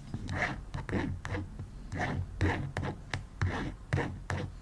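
Scratchy writing strokes, a letter being traced out stroke by stroke for an ASMR 'guess the word' trigger: a run of short scrapes with light ticks, about two a second.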